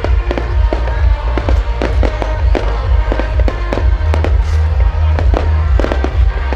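Fireworks going off in quick succession, several sharp bangs a second over a deep rumble, with music playing along.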